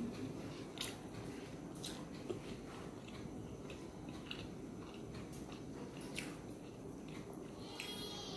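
A person chewing rice and curry with her mouth, with scattered wet smacks and clicks, over a steady low background noise.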